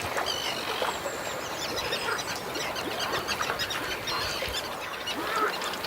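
A dense wetland chorus of many short animal calls overlapping, with no single call standing out.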